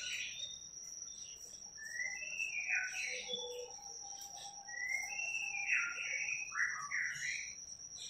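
A songbird whistling three phrases of slurred notes, each gliding up and then sweeping down. A steady thin high tone sounds behind them.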